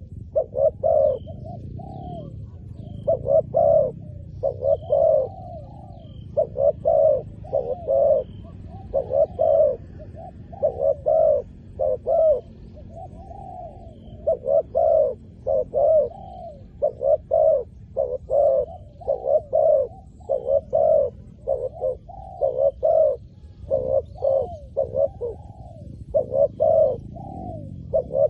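Spotted doves cooing over and over, each phrase a run of short rapid coos, with faint high chirps of small birds behind.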